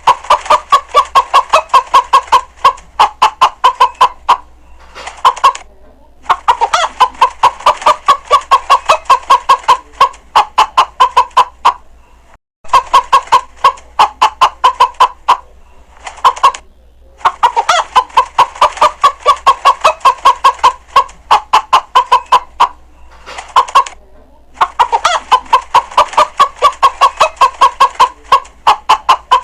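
Chicken clucking in quick repeated clucks, about four a second, in runs of a few seconds with short breaks between them.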